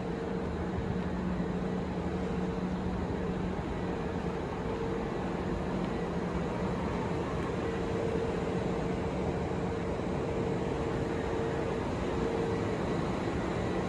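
Steady hum of an electric train standing at a terminal platform: a low constant drone with a higher tone that fades in and out.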